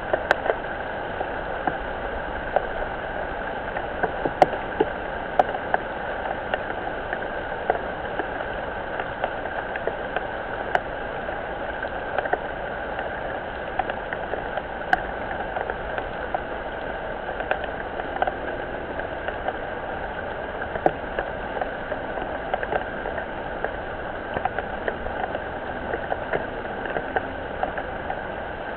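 Rain falling on a garden pond and its surroundings: a steady hiss with many small drop ticks scattered through it.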